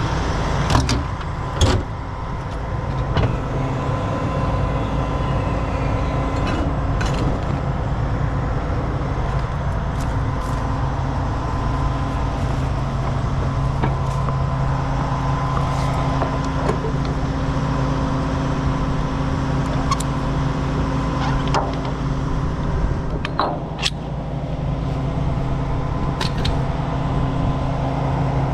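Heavy diesel truck engine idling steadily, with occasional short metallic clanks and knocks.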